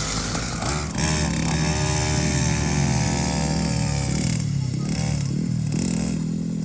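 LENKA 50cc mini motocross bike engine running, its pitch rising and falling as the throttle is opened and closed.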